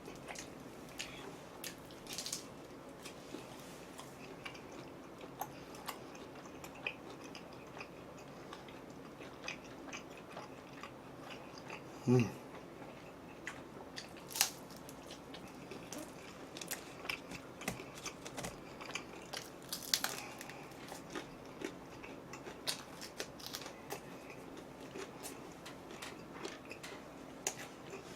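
Close chewing and biting of food, with scattered small crunches and clicks throughout. A short low pitched sound about twelve seconds in is the loudest moment.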